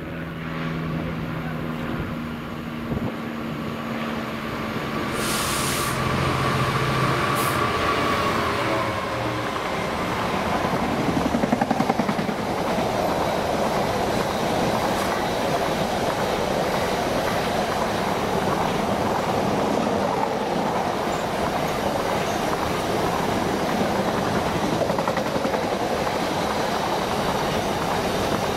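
A Class 66 diesel locomotive's two-stroke V12 engine runs louder as it approaches and passes. A long train of empty covered car-carrier wagons then rolls by, with a steady rumble of wheels and rhythmic clacking over rail joints.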